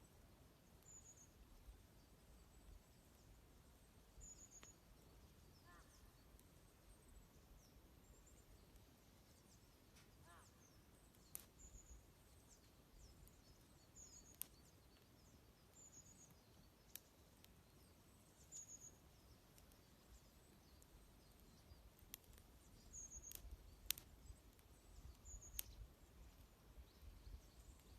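Faint, repeated short high chirps of small birds, with a few sharp pops of a wood bonfire crackling, mostly in the second half, over a low rumble.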